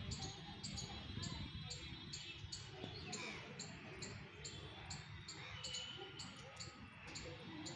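A small bird calling with a short high chirp repeated evenly, about two to three times a second, over a steady low background rumble.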